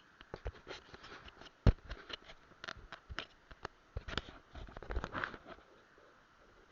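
A run of irregular close clicks, taps and knocks with some rustling. One sharp knock comes nearly two seconds in, and a denser cluster of rustling comes about five seconds in, over a faint steady hiss.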